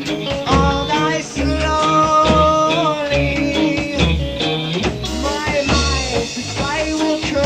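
Rock band playing: drum kit, electric guitar and singing, in a rough rehearsal recording, with the singer holding one note for about two seconds near the start.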